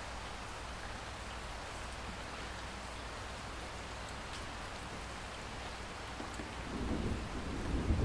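Steady rain falling, with a few scattered drops ticking. About six and a half seconds in, a low rumble of thunder swells and grows louder toward the end.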